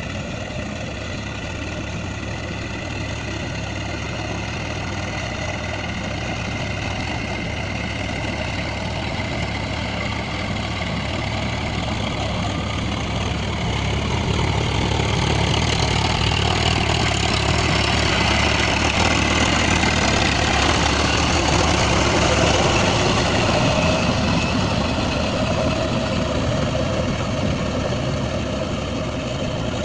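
Swaraj tractor's diesel engine running steadily, growing louder through the middle and easing off a little near the end.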